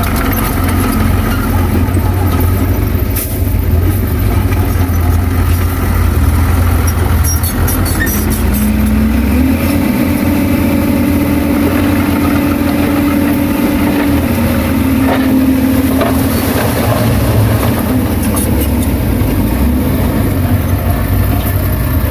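Heavy diesel machinery engine running steadily. Its pitch rises about nine seconds in, holds for several seconds and drops back around sixteen seconds, with a few sharp clanks along the way.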